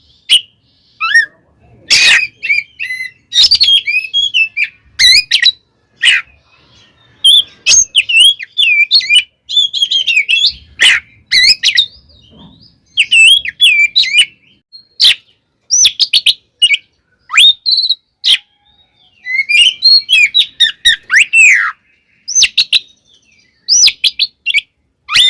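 Oriental magpie-robin (kacer) singing hard in its agitated, fight-ready territorial song. Quick, varied whistled phrases are mixed with sharp clicking notes and come in bursts with short pauses between them.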